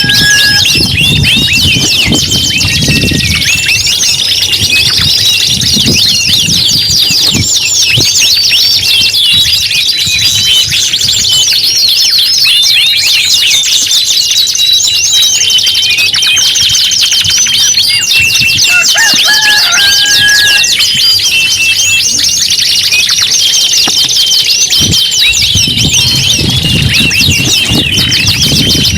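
Several domestic canaries singing at once: a loud, dense, unbroken stream of fast trills, rolls and chirps. A low rumble runs underneath at the start and again near the end.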